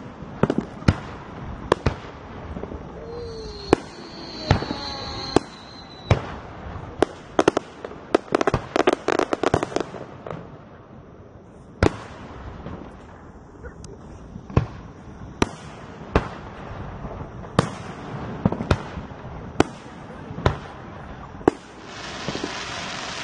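Aerial fireworks shells bursting overhead in a series of sharp bangs, with a rapid run of crackling pops about eight seconds in and a rise of hissing near the end.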